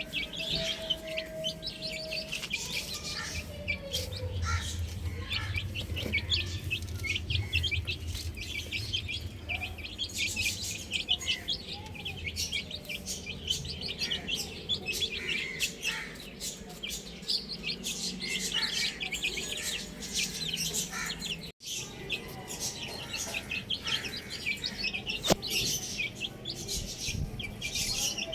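A brood of chicks peeping continuously, many short high chirps overlapping one another. The sound drops out for an instant about three quarters of the way through.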